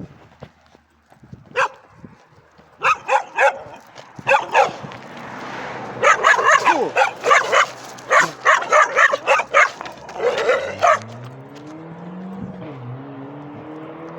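Several dogs barking aggressively in rapid volleys, densest in the middle. Near the end the barking stops and a car engine picks up, rising in pitch and then running steadily.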